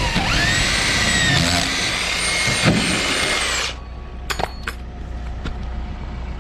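Power drill running: the motor spins up with a rising whine, holds a steady pitch, and stops a little over halfway through, followed by a few light clicks.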